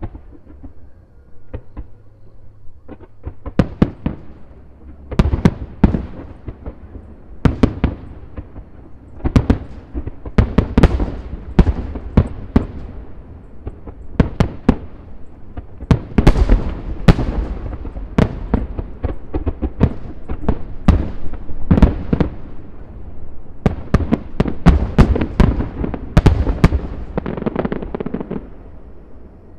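Aerial fireworks bursting in rapid volleys, dozens of sharp booms and cracks one after another with rumbling echoes between, thinning out near the end.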